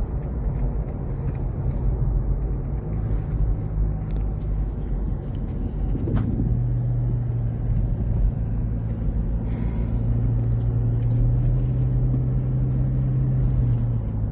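Car engine running with road noise while driving: a steady low drone whose engine note changes about six seconds in, then holds.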